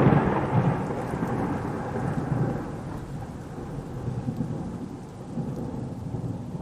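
Rumbling thunder over a steady rain hiss, loudest at the start and fading away gradually.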